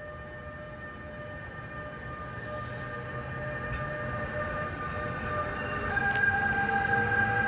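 An NJ Transit train approaching, growing steadily louder: a low rumble under a steady high whine of several tones that steps up in pitch about six seconds in.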